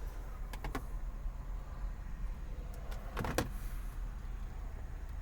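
Low steady rumble inside a car cabin, with a few light clicks early on and a sharper double click about three seconds in.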